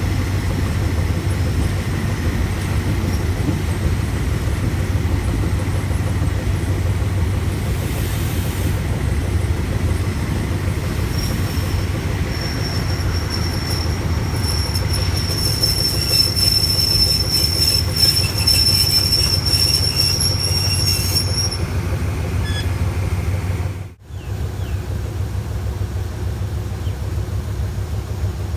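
Passenger train running on the rails with a steady low rumble. A high, steady wheel squeal comes in about a third of the way through and stops after about ten seconds, with a fast run of clicks over its last part. The sound drops out for a moment near the end.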